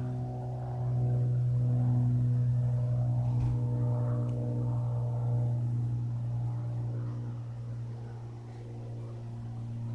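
Single-engine Cessna's piston engine and propeller droning overhead: a steady low drone that grows louder about a second in and eases off near the end.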